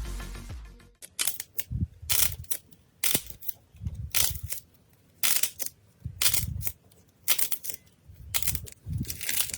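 Slime being pressed and squeezed by hand, giving short bursts of crackling and popping about once a second with brief pauses between. Electronic music fades out at the start.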